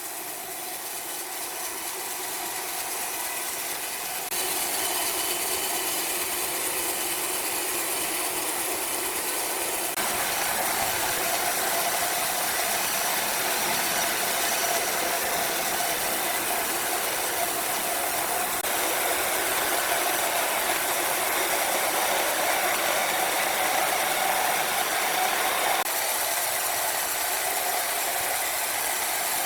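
Sawmill machinery running steadily, a continuous mechanical whirring noise that steps louder about four seconds in and again about ten seconds in.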